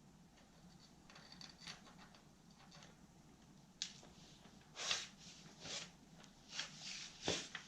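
A series of short scraping and rustling handling sounds, faint at first and then louder about halfway through, with about five distinct scrapes.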